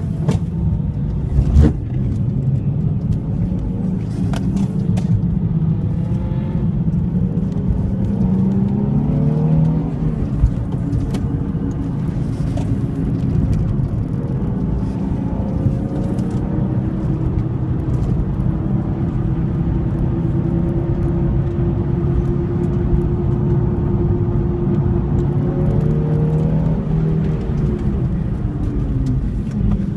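Nissan 350Z's V6 engine running hard on track, heard from on board: its pitch climbs about eight to ten seconds in, holds steady for a long stretch, then drops near the end. A brief knock sounds near the start.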